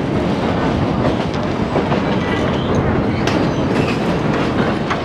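Passenger train rolling along a wooden trestle viaduct: a steady rumble of the carriage wheels on the rails, with a few sharp clicks over rail joints, heard through an open carriage window.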